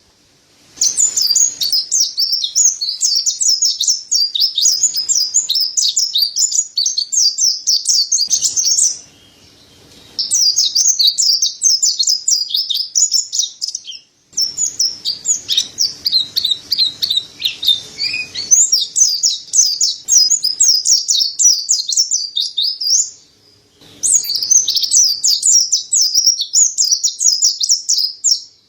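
Mountain white-eye (pleci dada putih, Zosterops montanus) singing a rapid, high-pitched twittering song in long runs, broken by short pauses three times.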